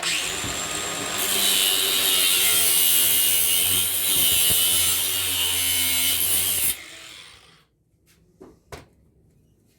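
A power tool cutting metal, running steadily and getting louder about a second in as it bites, then cutting off suddenly after about seven seconds, followed by a few light knocks.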